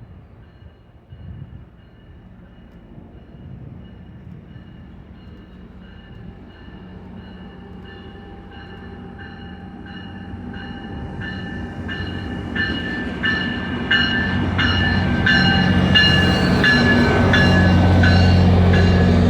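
Metrolink passenger train led by an MPI MP36PH-3C diesel locomotive approaching and growing steadily louder as it pulls into the station. Under the low engine drone runs a high steady squeal of the wheels and brakes, and in the last several seconds wheel clicks come about twice a second.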